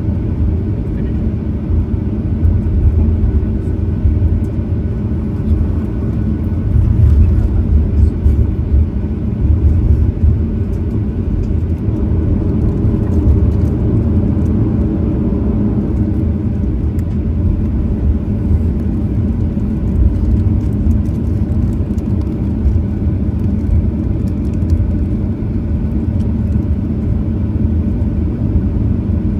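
Steady low rumble inside the cabin of a Boeing 737-900ER with its engines running, as heard from a seat by the window.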